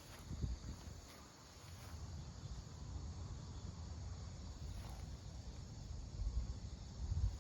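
Insects, likely crickets, chirping faintly and steadily in a garden, over an uneven low rumble that swells briefly near the end.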